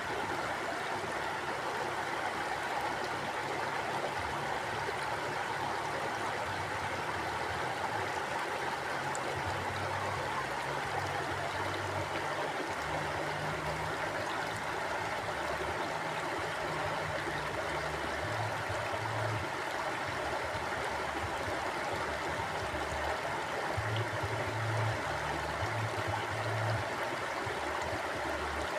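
Shallow stream flowing steadily, water babbling and rushing over rocks, with a low shifting rumble underneath.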